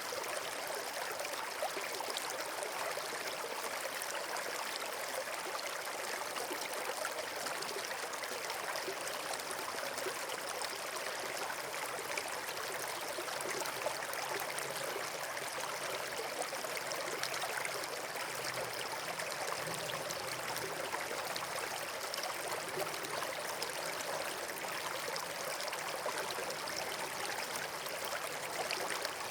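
Steady rush of flowing water, like a stream or small waterfall, running evenly without a break.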